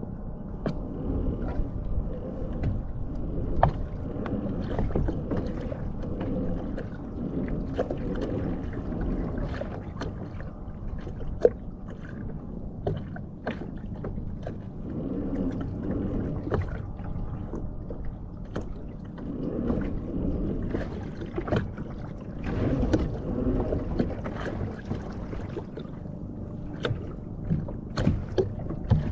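Water sloshing and splashing around a kayak, with scattered sharp knocks and clicks throughout.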